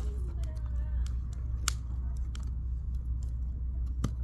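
Firewood burning in a campfire, crackling with scattered small snaps and two sharp pops, one a little under two seconds in and one near the end, over a steady low rumble.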